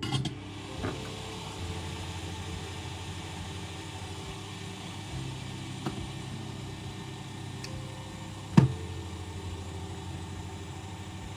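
Steady hiss with a low hum, broken by a few small clicks and one sharper knock about eight and a half seconds in.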